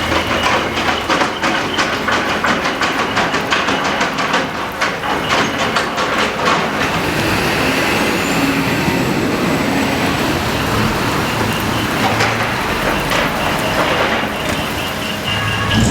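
Truck diesel engine running with its exhaust manifold split open (mani-wari), giving a fast clatter of exhaust pulses. After about seven seconds it settles into a steadier rumble.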